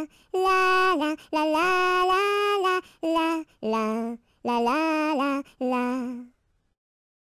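A woman's voice singing a simple children's melody on "la" syllables, unaccompanied: a phrase of short and held notes that ends about six seconds in, followed by silence.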